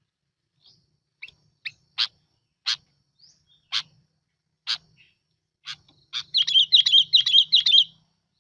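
Sooty-headed bulbul (bông lau) calling, from a lure recording used to draw in wild birds. It gives a string of short, sharp notes about one a second, then near the end a quick phrase of repeated looping notes.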